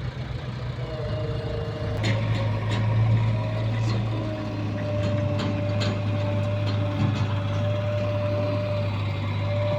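Diesel engine of a JCB backhoe loader running steadily, louder from about two seconds in as it works, with a thin steady whine over it. Several sharp metallic clanks come through during the loading.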